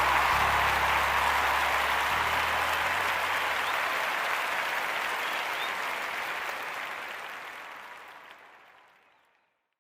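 An applause-like hiss under the deep bass notes of a hip-hop track's tail. The bass stops about three seconds in, and the hiss fades slowly to silence near the end.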